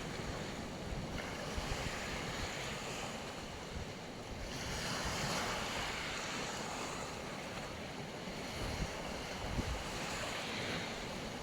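Black Sea waves washing onto the beach: an even hiss of surf that swells about four and a half seconds in and again near the end, with low rumbles of wind on the microphone.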